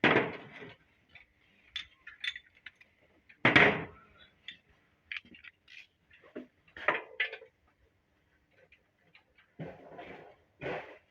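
Irregular metallic clinks and knocks of tools and metal parts being handled during engine dismantling. The loudest strikes come at the very start and about three and a half seconds in, with more clanks near seven seconds and near the end.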